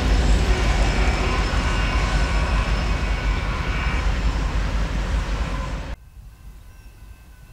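A Union Pacific freight train's rear distributed-power diesel locomotives moving away after passing at speed: a loud steady rumble with rail noise, slowly fading. About six seconds in it cuts off abruptly to a quiet background with a faint steady hum.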